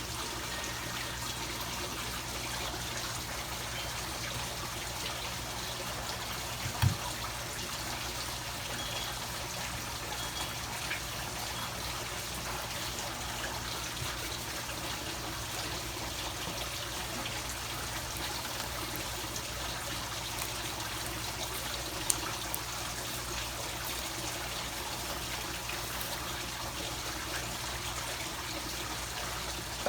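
Steady trickling of running water, with two brief clicks, one about seven seconds in and one past twenty seconds.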